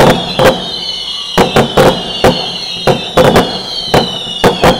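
Fireworks going off: an irregular series of sharp bangs, about a dozen in under five seconds, over a steady high-pitched whistle that slowly falls in pitch.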